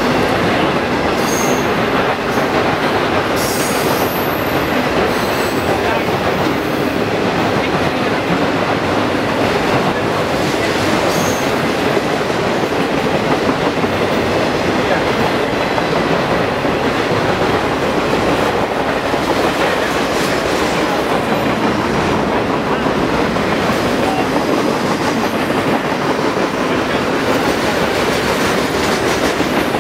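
BNSF intermodal freight train passing close at speed: a steady, loud rush of steel wheels on rail as trailer-carrying flatcars and double-stack container cars roll by.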